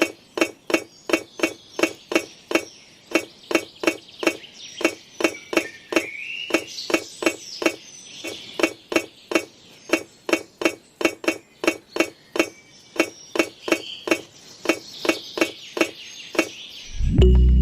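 Light, clinking tapping strikes, repeated evenly about three times a second, each with a short ring.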